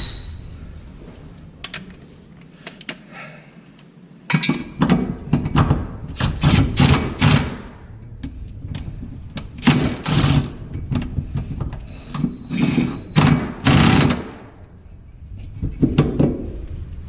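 Hand ratchet clicking in short bursts, with metal tools knocking, as bolts are run back into a car's engine mount.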